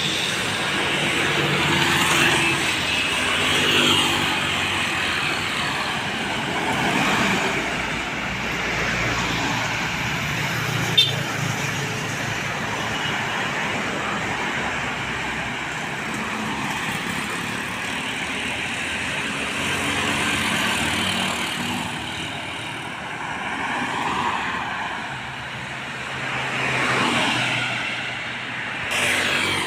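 Road traffic with heavy diesel trucks and other vehicles passing one after another, their engine and tyre noise swelling and fading as each goes by. One short sharp click about eleven seconds in.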